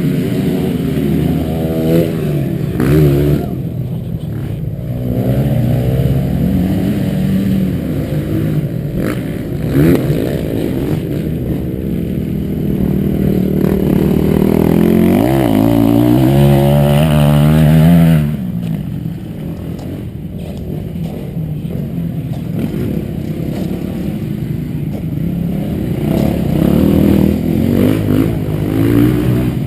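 Motocross bike engine revving up and down as it rides the track, the pitch climbing and falling with the throttle. It builds to its loudest and highest about eighteen seconds in, then drops off sharply.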